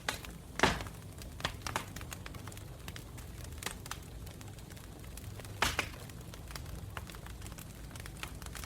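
Campfire crackling: irregular pops and snaps over a low steady rumble, the two loudest snaps about half a second in and just before six seconds.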